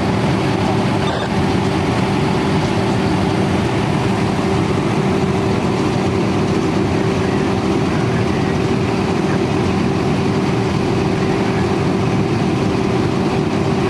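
Fire apparatus diesel engine running steadily, a constant low drone with an even hum.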